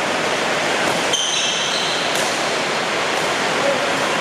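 Heavy rain falling steadily, a dense even hiss. A brief high squeak comes about a second in.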